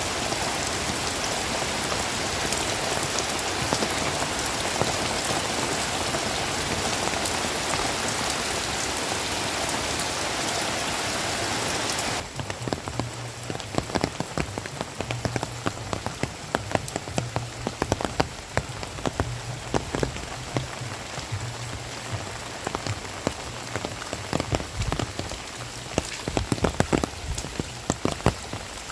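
Heavy rain falling in a steady, dense hiss. About twelve seconds in, the sound changes abruptly to separate raindrops striking close by, sharp and uneven, over a faint low hum.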